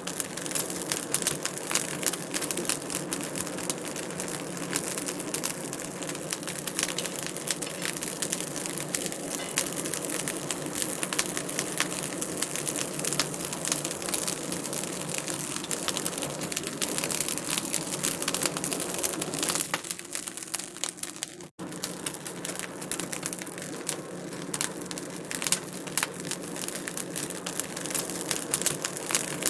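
Wood fire crackling in a fireplace: a dense, irregular stream of small pops and snaps over a steady hiss, cutting out for an instant about two-thirds of the way through.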